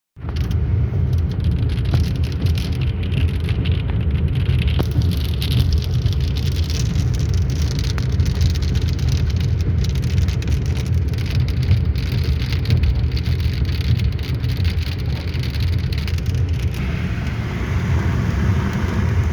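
Car driving in the rain: a steady low rumble of engine and road noise, with many fine irregular clicks of raindrops striking the car. The drop clicks thin out near the end.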